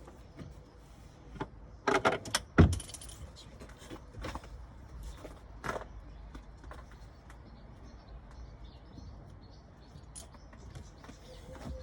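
Scattered clicks and clinks of small hard objects being handled, with a cluster of louder knocks about two seconds in.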